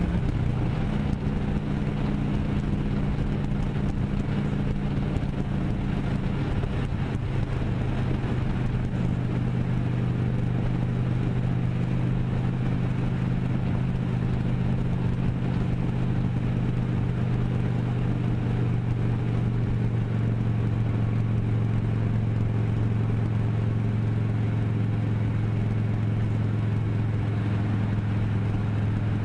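Motorcycle engine running at a steady speed while riding, with road noise underneath. Its note shifts about a second in and then holds steady.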